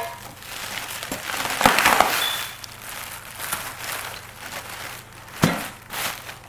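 Packing material crinkling and rustling as exhaust parts are handled in their shipping box, with a louder knock about two seconds in and another near the end.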